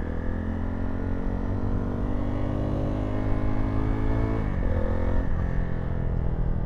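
Zontes T2 350 motorcycle engine pulling under acceleration, its pitch climbing steadily for about four seconds, dropping sharply at a gear change, then pulling on again.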